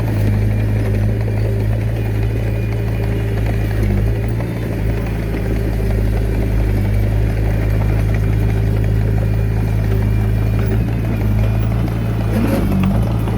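Komatsu D21A mini bulldozer's diesel engine running steadily, with a brief change in the engine note near the end.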